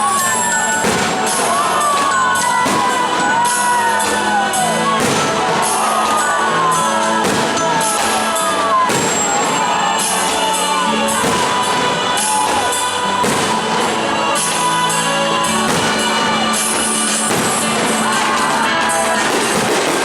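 Fireworks bursting in repeated bangs through a stadium's loud music, with the crowd cheering.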